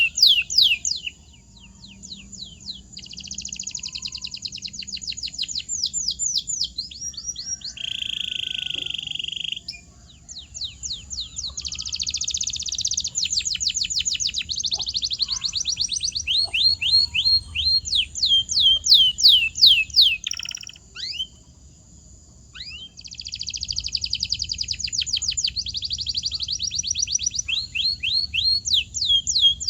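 Domestic canary singing: fast trills and runs of quickly repeated falling notes in phrases several seconds long, with brief pauses between phrases.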